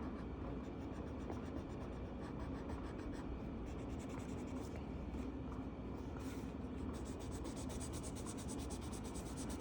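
Felt-tip marker rubbing back and forth on a colouring-book page as an area is coloured in: a faint, steady run of quick strokes.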